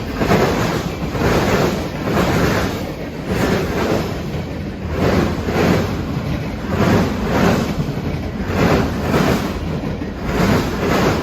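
Freight train cars rolling past, a rumbling rush that swells and fades about every half second as the wheels pass.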